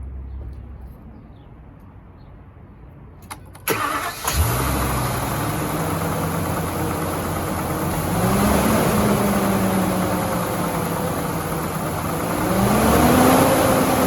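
A 2012 Ford F-550's engine cranks briefly and starts about four seconds in after a click, then idles. It is revved twice, the pitch rising and falling back to idle each time.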